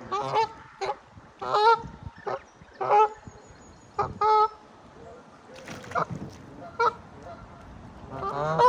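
Geese honking: a string of short, harsh calls in irregular bursts, several close together in the first half and a loud call near the end.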